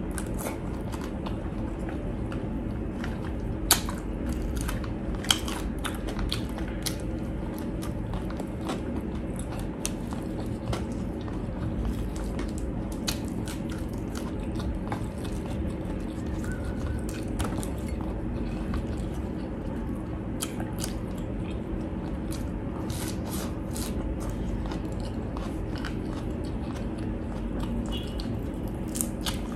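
Close-up chewing and biting into crispy deep-fried pork, with irregular sharp crunches of the crackling skin and a few louder bites about 4 and 5 seconds in, over a faint steady hum.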